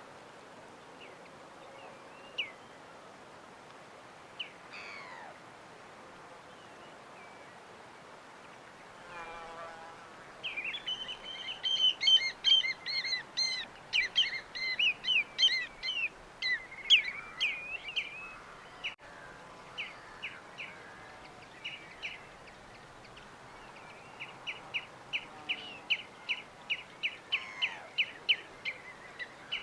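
Small birds chirping and singing over a steady background hiss: a few scattered chirps at first, then about a third of the way in a burst of busy overlapping song, and near the end a run of quick, evenly repeated chirps, a few a second.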